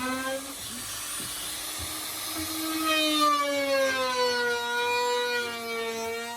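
Electric power tool running on wood, a steady motor whine whose pitch sags and recovers slowly as it works under load.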